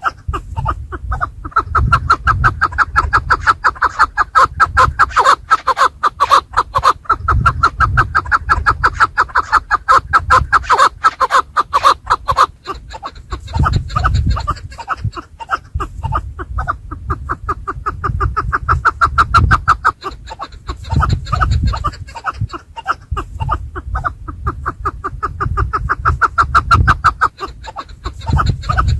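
Chukar partridges calling: rapid clucking notes repeated many times a second in long runs, with short breaks. A low rumble runs underneath.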